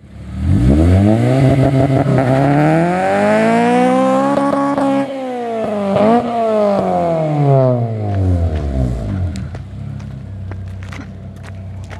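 Honda Civic Si sedan's 2.0-litre four-cylinder engine through an aftermarket header and 3-inch exhaust, revving up in one smooth climb for about four seconds, then falling back over about four more. It then settles to a low, steady rumble with a scattering of small crackles.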